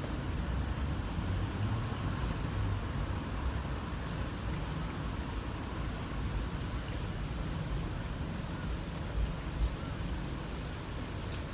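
Light rain falling, with an insect trilling on one high note that runs for the first few seconds, returns briefly in the middle, then stops. A low rumble runs underneath.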